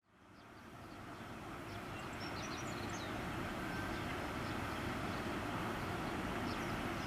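Steady outdoor rumble and hiss fading in, with a few short high chirps twice.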